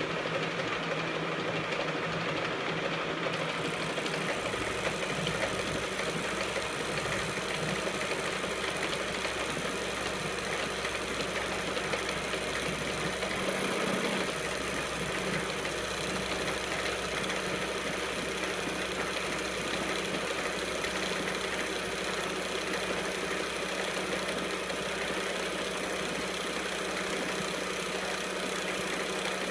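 E1N metal lathe running at a steady speed, its motor and gearing giving a constant hum and whine that cuts in suddenly at the start.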